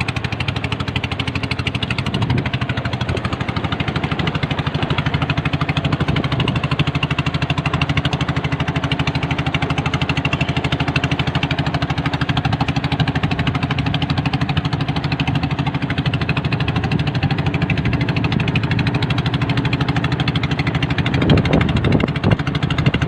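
A fishing boat's engine running steadily with a fast, even chugging pulse.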